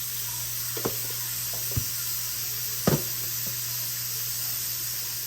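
Butter and oil sizzling gently in a pan, a steady hiss, with a few short clicks of a utensil or ingredients against the pan, the loudest about three seconds in.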